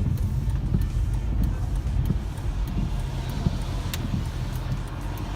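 BMW E46 M3's straight-six engine running steadily under way, with road noise, heard from inside the car. A single sharp click about four seconds in.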